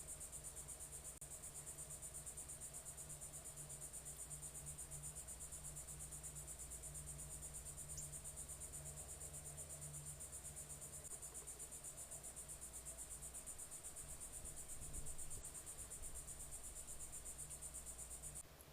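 Insects trilling, a steady high-pitched pulsing chorus that stops abruptly near the end.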